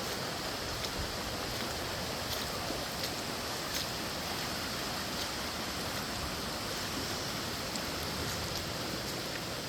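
Flood-swollen creek water rushing steadily, with a few faint clicks over it.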